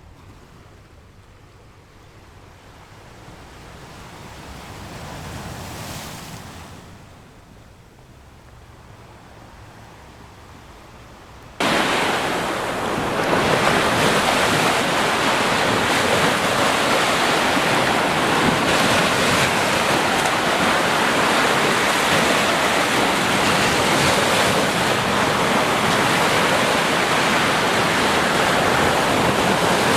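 Ocean waves on a beach: a soft swell of surf rises and falls, then about twelve seconds in the sound cuts abruptly to much louder, steady crashing surf with wind on the microphone.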